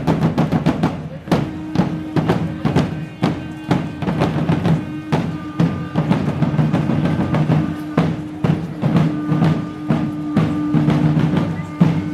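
A group of drums beaten together in a fast, dense rhythm, with many strikes a second. A steady held tone joins in about a second in and sounds over the drumming.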